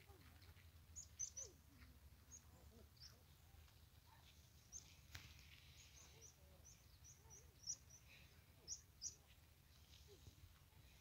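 Faint birdsong: small birds chirping in short, high notes scattered throughout, over a low steady background rumble.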